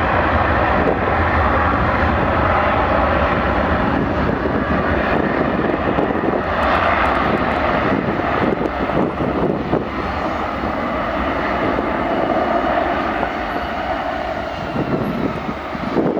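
Jet airliner's engines running loud and steady, a broad rushing noise with faint wavering tones, easing slightly over the last few seconds.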